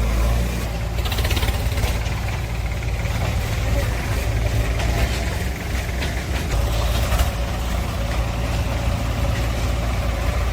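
Heavy diesel engine running steadily, with a few short knocks over it.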